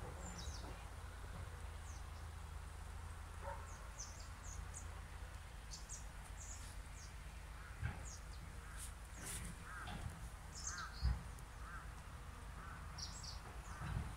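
Birds calling: faint short high chirps scattered throughout, and a run of lower repeated calls, about two a second, in the second half. A steady low rumble lies underneath, with a couple of soft knocks.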